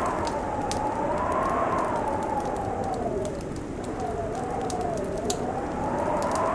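Wind howling in slow rising and falling tones over a crackling fireplace, with scattered sharp pops from the burning wood.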